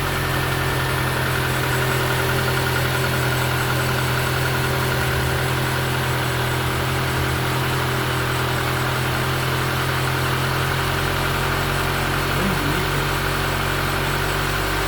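Taxi's car engine idling steadily, with new valve lifters fitted after a broken lifter spring.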